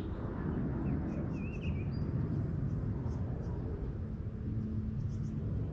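Outdoor ambience: a steady low rumble with a few faint bird chirps in the first couple of seconds.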